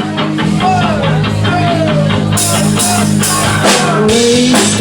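Live rock band playing the opening of a new song: an instrumental intro with a steady rhythmic guitar figure, then drums and cymbals come in a little over two seconds in.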